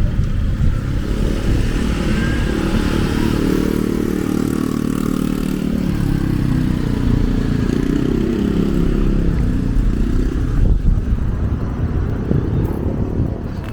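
A motor vehicle's engine passing: a steady hum that builds, is strongest in the middle and fades after about ten seconds, over a low rumble.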